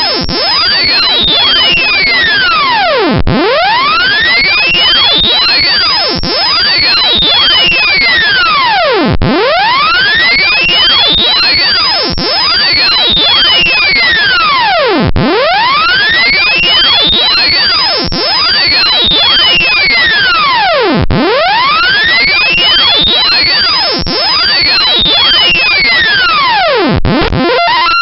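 Loud, harsh computer-generated bytebeat audio from the Ethylenediaminetetraacetatex86 GDI malware payload. It is a buzzy electronic tone whose pitch sweeps down and back up in long arcs about every six seconds, with fainter mirrored sweeps crossing it. It breaks off just before the end.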